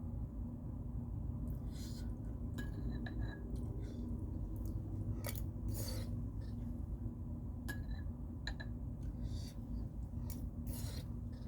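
Close-miked eating of crisp fried snacks such as samosas: scattered short crunchy clicks and small clinks at irregular intervals, over a steady low hum.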